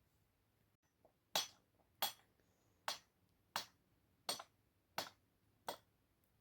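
Seven sharp knocks in an even rhythm, about three every two seconds, starting a little over a second in, like repeated blows of a tool.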